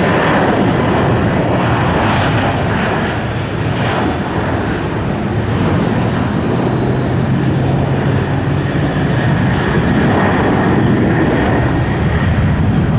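Jet airliner departing under takeoff power, its engines making a loud, steady rushing noise with a faint steady whine.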